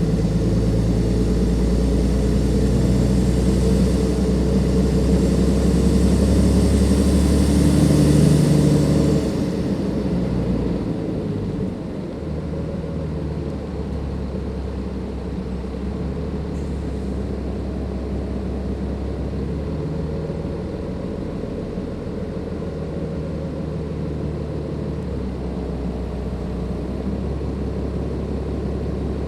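Cummins ISLe 340 diesel engine of a Dennis Enviro 500 double-decker bus pulling under load, with loud turbo noise, a rising hiss over the engine that builds for about nine seconds. The power then comes off and the engine drops back to a quieter, steady running for the rest.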